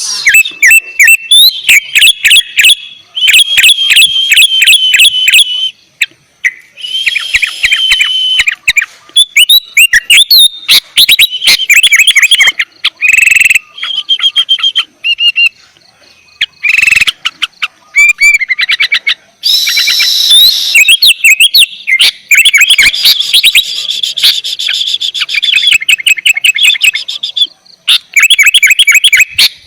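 Sooty-headed bulbul (kutilang) singing constantly: loud, rapid phrases of quick chirping, whistled notes, separated by short pauses.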